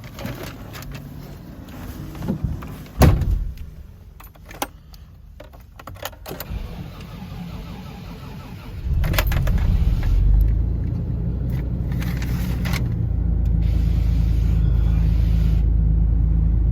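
Scattered clicks and knocks, with one loud knock about three seconds in. About nine seconds in, the Toyota FJ62 Land Cruiser's 4.0-litre inline-six starts from cold, flares up briefly, then settles into a steady idle.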